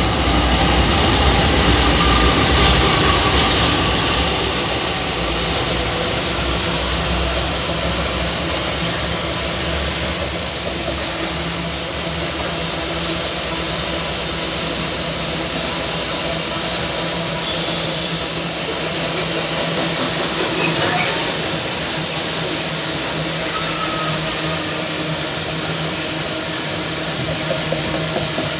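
Diesel locomotive of an iron-ore freight train passing close by, its engine rumble heaviest in the first few seconds. The loaded ore wagons follow, rolling past with a steady noise of steel wheels on rail.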